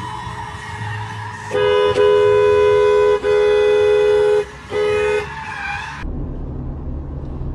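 Car horn blaring in three blasts, the first two long and the last short, with two close pitches sounding together. Then the sound cuts abruptly to a low engine and road rumble.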